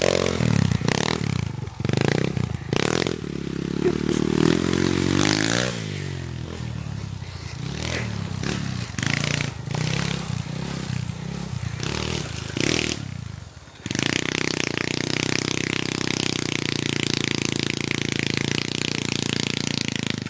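Small pit bike engine revving up and down under a rider, with repeated clattering knocks and scrapes. About two-thirds of the way in it settles into a steady, even running note.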